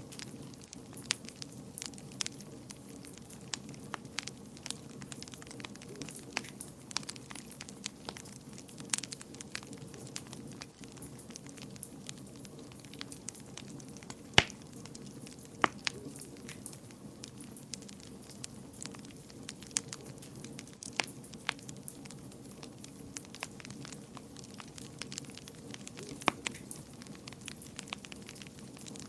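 Wood fire burning in a fireplace: a steady low rumble of flames with irregular crackles and pops, the sharpest pop about halfway through.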